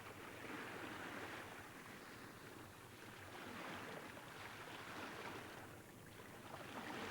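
Faint rushing of sea water and waves, swelling and easing every few seconds.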